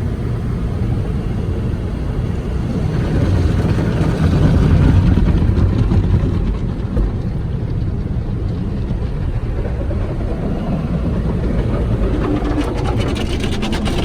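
Steady low rumble of a motor vehicle, swelling a little a few seconds in, with faint clicking near the end.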